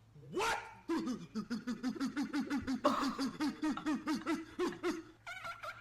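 A person's voice letting out a short rising cry, then a long, rapid string of laugh-like pulses, about five a second, that stops about five seconds in.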